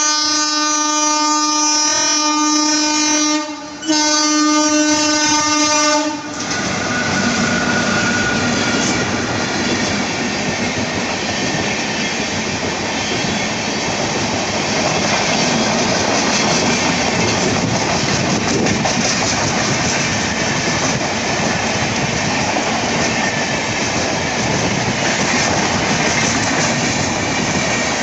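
WAP-4 electric locomotive sounding its horn in two long blasts, then the train running past with a steady rush and clatter of wheels on the rails.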